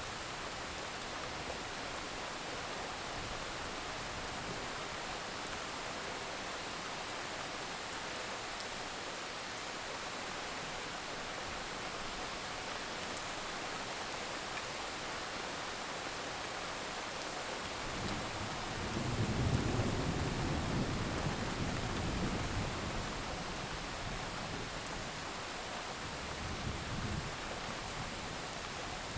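Steady rain falling with an even hiss. About 18 seconds in, a low rumble of distant thunder swells and fades over several seconds, with a smaller rumble near the end.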